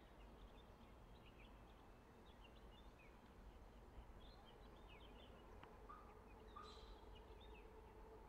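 Near silence with faint, scattered bird chirps and a faint steady hum.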